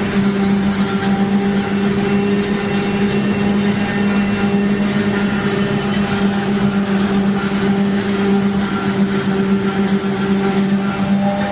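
Silage (forage) harvester running steadily: a constant drone that holds one pitch.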